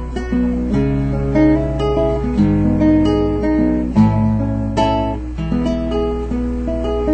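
Acoustic guitar strumming and picking chords, changing chord about every second, in an instrumental passage between sung verses.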